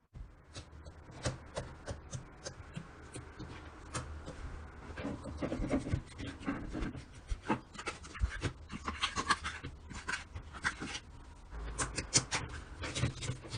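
Slime being squished and worked by hand, giving a dense, irregular run of sticky clicks and crackling pops.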